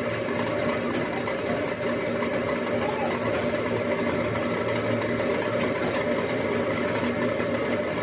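A machine motor running steadily with an even hum, without pauses or changes in speed.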